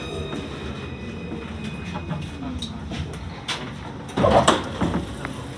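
C Class tram heard from inside as it slows for a stop: a steady low running rumble, with a louder burst of clatter about four seconds in.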